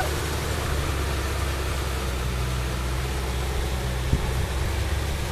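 Kubota M6040 tractor's diesel engine running steadily, with a single short knock about four seconds in.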